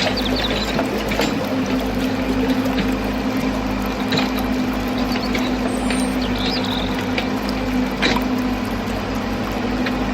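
A motor running steadily, a hum at a fixed pitch with a pulsing low rumble, with scattered clicks and ticks and a few faint high chirps.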